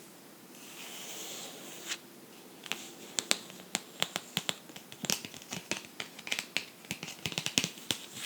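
Light scratching on a book's surface, then quick, irregular taps on the book that start about two seconds in and go on to the end.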